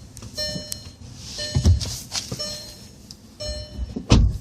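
Short electronic tones sounding several times, with two dull thumps, one about one and a half seconds in and a louder one near the end.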